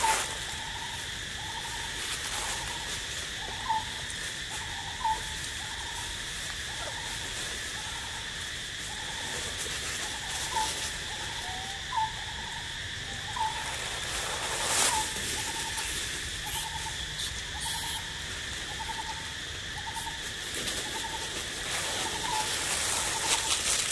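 A forest bird repeating a short hooting note, a little faster than one a second, with a few sharper chirps in between, over a steady insect drone.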